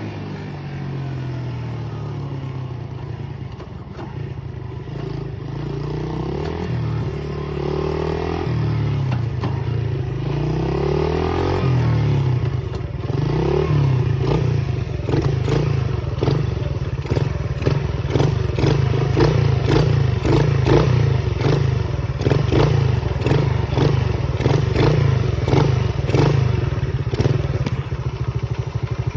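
Pit bike engine running under way, its pitch rising and falling as it revs up and eases off. From about halfway the note holds steadier and frequent knocks and rattles join in.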